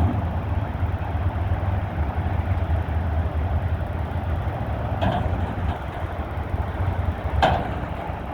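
Peterbilt 520 front loader garbage truck running with a steady diesel rumble while it works a dumpster, with two short knocks about five seconds in and again near the end, the second the louder.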